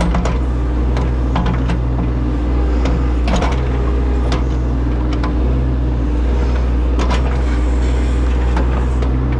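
Heavy equipment diesel engine running steadily close by, with several sharp metal clanks and knocks, the loudest at about three seconds in and again near seven seconds.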